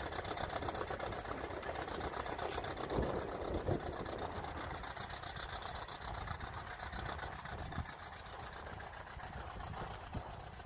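1926 Ford Model T's inline four-cylinder engine running at idle with an even, rapid beat, with a couple of short knocks about three seconds in.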